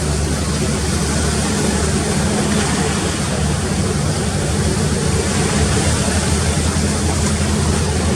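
Ship's engines running with a steady low drone and an even rushing hiss over it.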